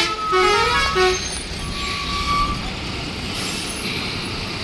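Road traffic in a jam: several vehicle horns honking in the first second, a fainter horn note about two seconds in, over the steady running of engines.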